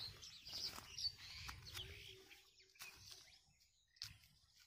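Faint bird chirps, with a few soft clicks spaced about a second apart.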